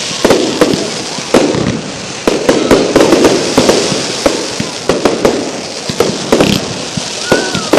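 Fireworks display: an irregular run of sharp bangs, several a second at times, over continuous crackling. A short whistling tone comes near the end.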